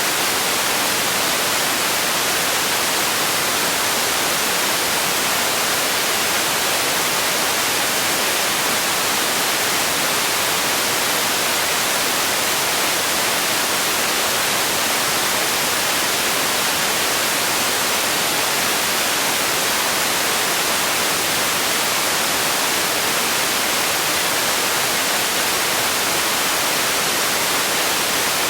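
Steady white noise: an even, unchanging hiss, strongest in the high range and thin in the bass.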